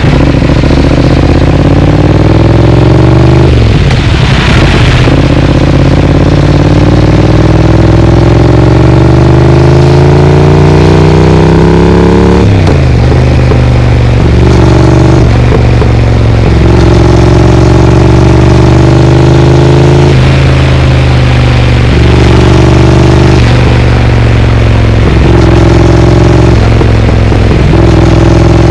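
Triumph Speed Twin's parallel-twin engine through a Vance & Hines exhaust, accelerating through the gears. The pitch rises in two long pulls, with breaks for gear changes about 4 and 12 seconds in, then holds steadier with small rises and dips.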